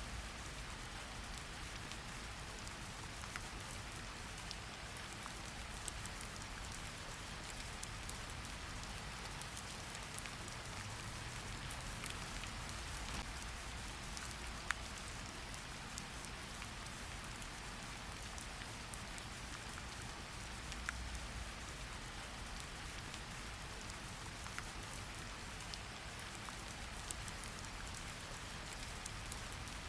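Steady rain falling on a surface, an even hiss with many small individual drops ticking sharply through it.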